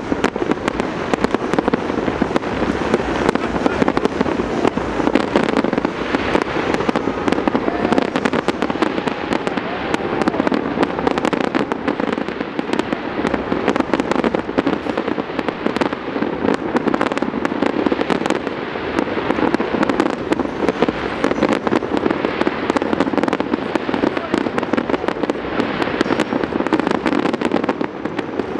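A fireworks display: a steady barrage of bangs and crackling bursts, many every second, with no break.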